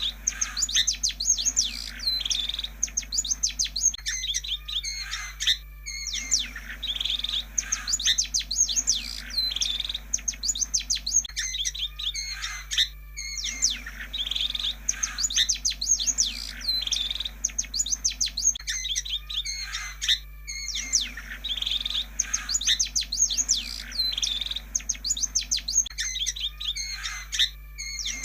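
Long-tailed shrike (pentet) singing a busy chattering, whistling song in phrases several seconds long with brief pauses between them, repeating like a looped recording, over a steady low hum.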